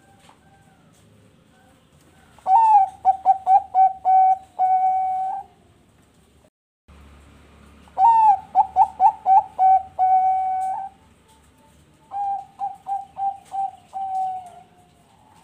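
Zebra dove (Bangkok perkutut) singing its cooing song in three phrases. Each phrase is a quick run of short coos that ends in one longer held coo, and the third phrase is quieter.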